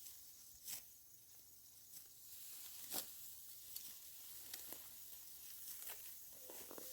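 Sparse crisp rustles and snaps of dry rice stalks being handled during a hand harvest, about one a second, over a faint high hiss.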